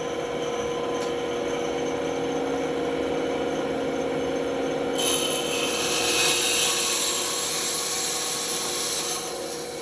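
Band saw running with a steady hum; about five seconds in its blade bites into the workpiece, adding a high hissing cut that eases off near the end.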